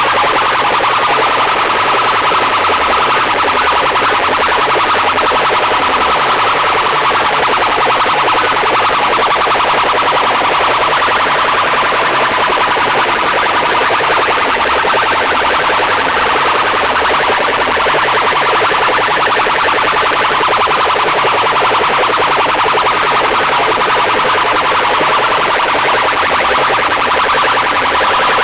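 DJ sound-box systems blasting at full volume, heavily overdriven: a steady high tone sits over a dense, distorted wash, with a fast repeating pulse in the bass. The level stays flat and saturated throughout.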